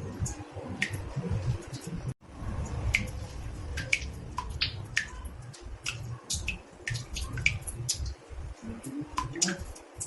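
Water drops falling into a bathtub: irregular plinks, several a second, each with a short pitched ring, over a low rumble. The sound cuts out for a moment about two seconds in.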